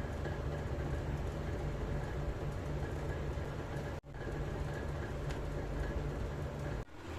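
Electric sewing machine running steadily as it stitches, with a rapid, even mechanical drone. It stops abruptly about four seconds in and picks straight up again, then breaks off once more near the end.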